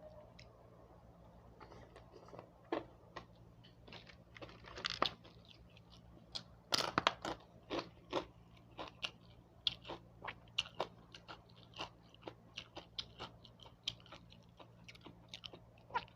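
A person chewing and biting crunchy food close to the microphone: irregular crisp crunches, thicker and louder from about halfway through.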